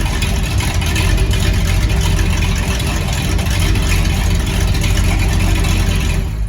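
Chevy 454 big-block V8 (7.4 L) running steadily through stainless exhaust and Flowmaster 40-series-style mufflers, loud and even, cutting off abruptly at the end.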